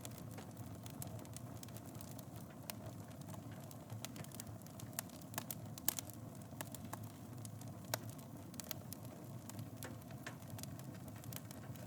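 Wood fire burning in a fireplace, with a steady low rumble and irregular sharp crackles and pops, a couple of them louder.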